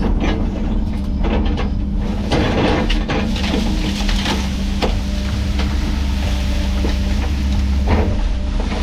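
Heavy diesel land-clearing machine running steadily under load, with repeated cracks and snaps through it.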